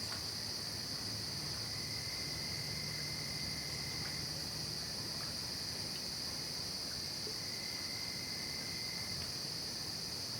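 Night chorus of crickets and other insects: a steady high-pitched drone, with a thinner, lower trill that stops and starts. A faint low hum runs under it in the first half.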